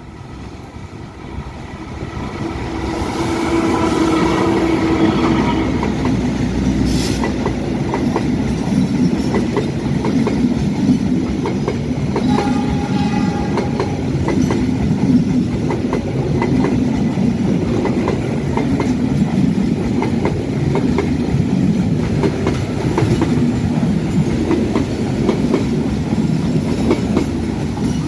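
Passenger train passing close by, hauled by a diesel locomotive: the locomotive's engine builds up and goes by in the first few seconds, then a long run of carriages follows with their wheels clicking steadily over the rail joints.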